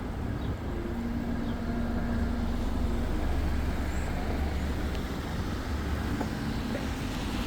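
Steady low rumble of road and traffic noise during a ride, with a brief humming tone from a vehicle about a second in.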